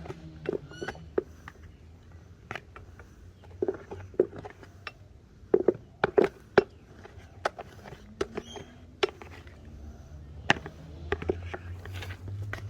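Irregular knocks, clicks and scuffs of things being handled and moved, with a few brief voice sounds and a low rumble underneath.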